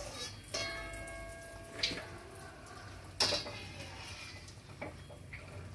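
Appam batter deep-frying in hot oil with a steady sizzle. A few sharp clinks cut through it, the first ringing on for about a second and the loudest about three seconds in.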